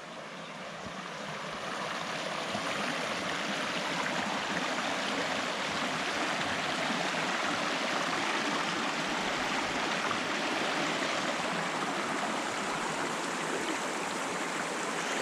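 Mountain stream rushing over rocks, a steady hiss of running water that grows louder over the first few seconds and then holds even.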